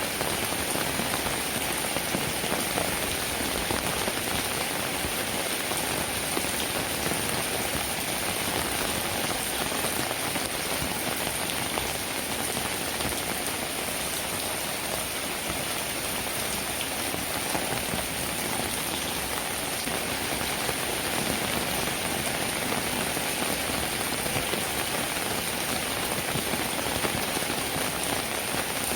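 Steady rain falling, a dense, even patter of many drops that keeps the same strength throughout.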